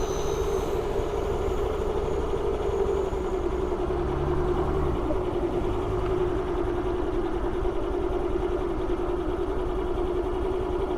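Yamaha Ray Z scooter's single-cylinder engine idling steadily when warm, with a small shift in its note about five seconds in, as its idle speed is turned down at the carburettor's idle screw because it was idling too high.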